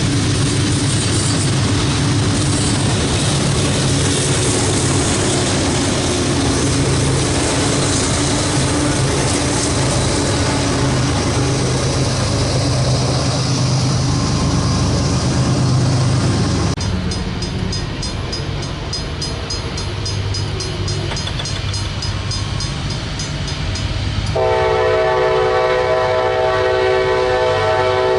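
Diesel freight train running past, engine drone and wheel noise on the rails. About 17 seconds in the sound changes abruptly to a quieter stretch with rapid high ticking. About 24 seconds in, a locomotive air horn starts blowing a steady chord.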